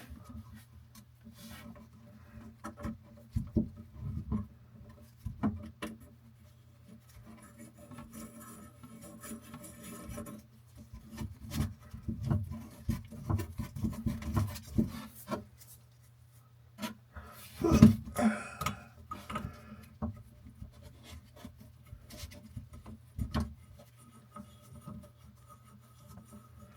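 Hands fitting faucet mounting nuts and washers: irregular rubbing, scraping and light knocks, with a louder clatter of knocks about two-thirds of the way in, over a steady low hum.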